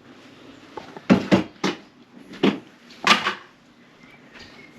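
Mugs and crockery being handled and set down while tea is made: about five sharp knocks and clunks in quick succession, the loudest near the end.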